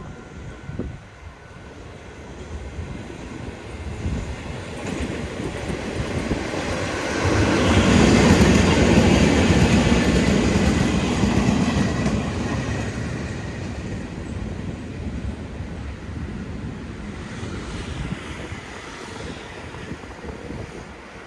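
Freight train passing: a rumble full of quick wheel clacks over the rail joints builds, is loudest from about seven to twelve seconds in, then slowly fades as the train moves away.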